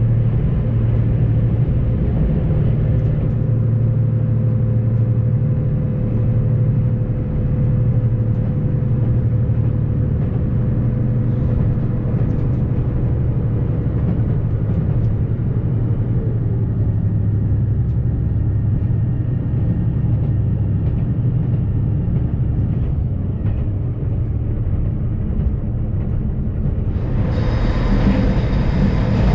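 A JR Shikoku 2700 series diesel railcar running along the line: steady low engine hum with rumble of wheels on rail. About 27 seconds in, a louder hissing rail noise suddenly joins.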